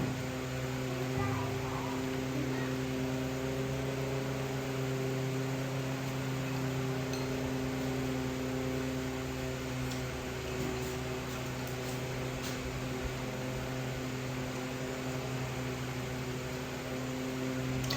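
Steady low mechanical hum with an even pitch, from a running motor or fan, with a few faint ticks.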